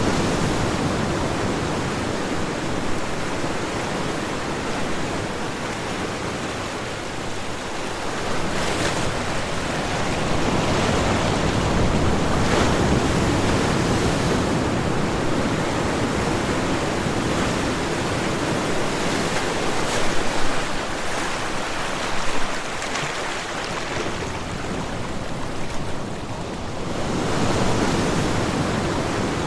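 Ocean surf: waves breaking and washing in a continuous rush that swells louder and falls back slowly.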